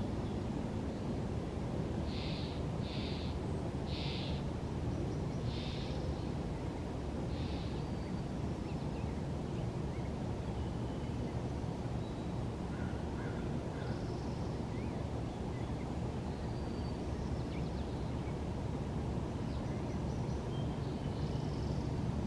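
A bird gives five short calls in quick succession about two to eight seconds in, with a few faint chirps later, over a steady low outdoor rumble.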